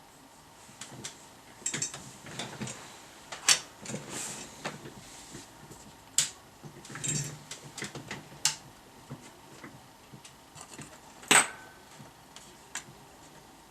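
Irregular clicks, light knocks and short scrapes of tools and parts being handled on a workbench. The two sharpest clicks come a few seconds in and again near the end.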